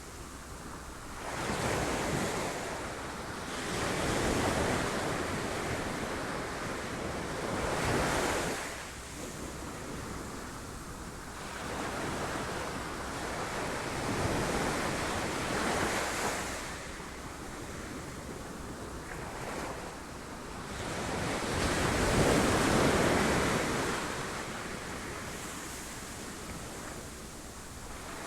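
Ocean waves breaking on rocks, surging and ebbing every few seconds, with the biggest wave about three-quarters of the way through.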